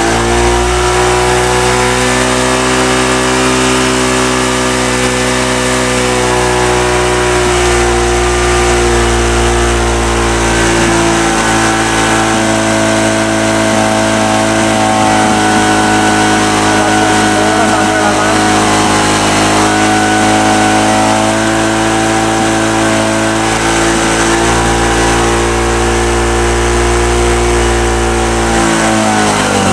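Motorcycle engine running at a raised, steady idle while its carburettor air screw is being adjusted. The revs hold at the high point that marks the air-fuel mixture setting, then fall near the end.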